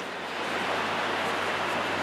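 Steady road and engine noise of a moving bus, an even hiss over a low hum, a little louder from about half a second in.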